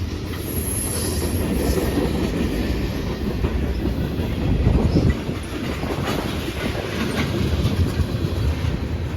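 Freight train cars rolling past at close range: a steady low rumble of wheels on rail with occasional sharp wheel clicks.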